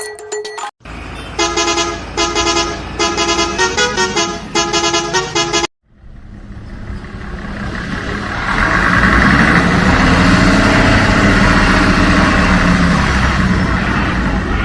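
Electronic toy sound effects: a short beeping horn-like tune of repeated notes, which cuts off suddenly, then a noisy engine-like sound that swells up and holds steady.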